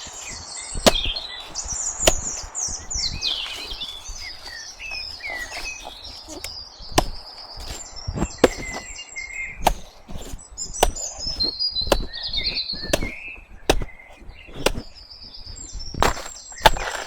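A blade chopping banana stems in irregular strikes, roughly one every second or two, with small birds chirping throughout.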